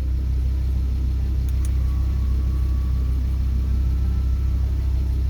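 The Audi R8's 5.2-litre V10 idling steadily, a low, even hum heard from inside the cabin.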